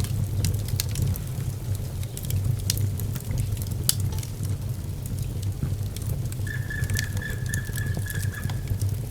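Wood fire in a fireplace crackling, with sharp pops over a steady low rumble of the flames. About two-thirds of the way in, a steady high whistle at one pitch comes in for a couple of seconds.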